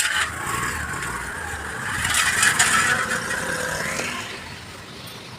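Road traffic: a motor vehicle passing, building to a peak in the middle and fading away, after a short sharp noise at the start.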